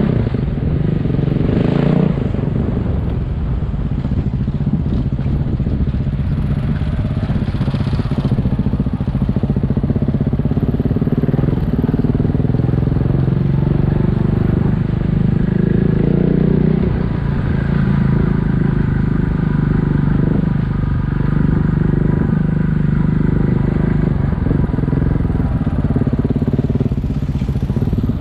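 Single-cylinder dual-sport motorcycle engine running under way, its pitch rising and falling with the throttle over a steady low rumble.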